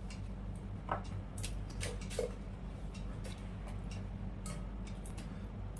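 Crisp fuchka (pani puri) shells being broken and crunched: scattered small clicks and crackles, about half a dozen, over a steady low hum.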